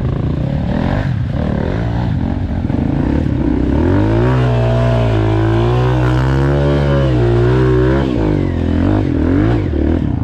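Four-stroke dirt bike engine at low revs with a choppy rumble, then revving up about four seconds in and held high for several seconds before dropping back, with one more short rev near the end.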